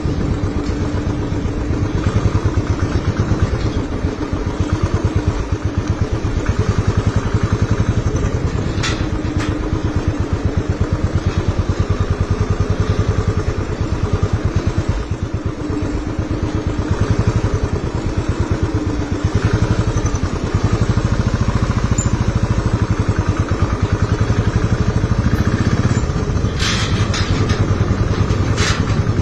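Motorcycle engine running steadily under way, its pitch rising and falling a little, with a few sharp clicks near the end.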